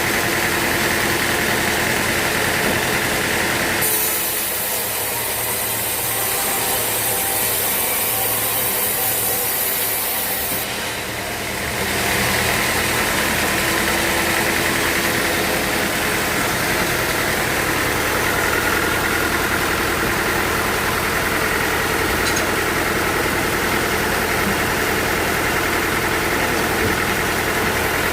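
Sawmill machinery running steadily with an engine-like hum. From about 4 to 11 seconds a high hiss is added and the lower hum drops a little, before the steady running sound returns.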